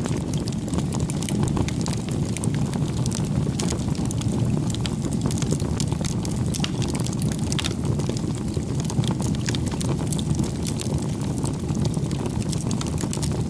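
Wood fire burning: a steady low rush with frequent small sharp crackles and pops.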